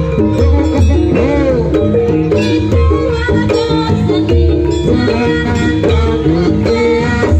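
East Javanese jaranan ensemble music played loud over a sound system. Steady ringing pitched percussion runs over deep drum beats that fall about every one and a half seconds, and a melodic line bends up and down in pitch a little after one second in.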